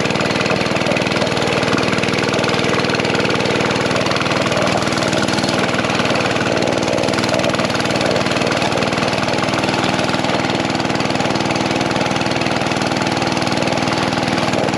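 Mini bike's small engine running steadily at an even speed.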